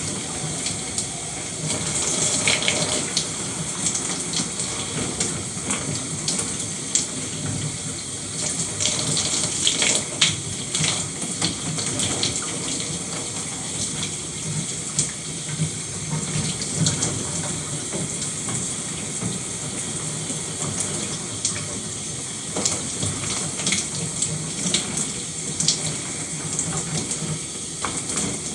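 Shower running steadily, water spraying and splattering with many small irregular drips and splashes.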